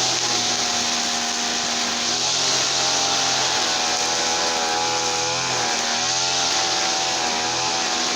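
Small petrol engine running steadily, its pitch wavering slightly now and then, with a strong hiss over it.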